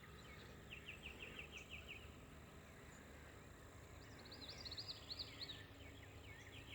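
Small birds chirping faintly. A quick trill of about eight even notes comes about a second in, and a higher, busier burst of chirps follows around four seconds in, over a steady low background noise.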